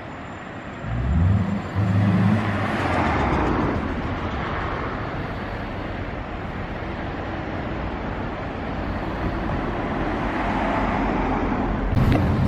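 A large public-transport vehicle running close by: a low engine note starts about a second in and is loudest early, then settles into a steady rumble that gets louder again at the very end.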